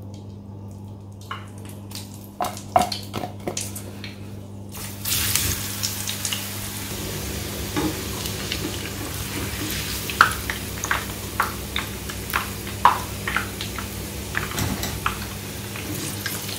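Plantain slices frying in hot oil: a steady sizzle starts about five seconds in, with sharp clicks of a fork and spatula against the frying pan as the slices are turned.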